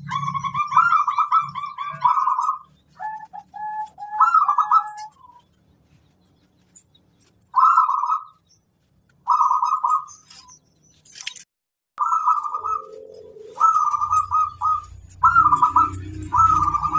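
Zebra dove (perkutut) cooing: short rolling, trilled phrases repeated with pauses between them, with a lower call partway through. A low rumble builds in the last few seconds.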